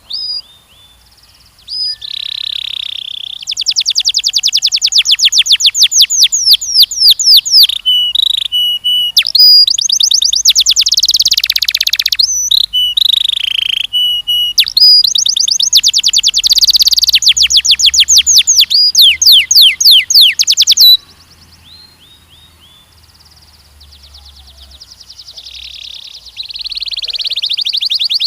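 Canary singing long, high-pitched song phrases made of fast, evenly repeated trill notes. The song stops about 21 seconds in and starts again near the end.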